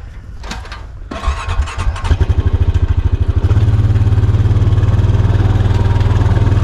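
ATV engine starting about a second in, firing unevenly for a couple of seconds, then settling into a steady idle.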